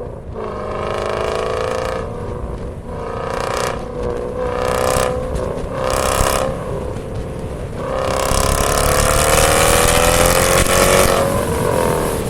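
Dodge V8 with an aftermarket cat-back performance exhaust being revved: four short blips of the throttle, then a longer rev about eight seconds in that climbs in pitch and drops back near the end.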